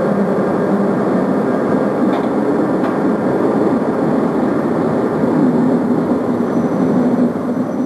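A DB Class 120 electric locomotive and its passenger coaches passing close by: a steady rumble of wheels on rail with a humming tone, easing off slightly near the end.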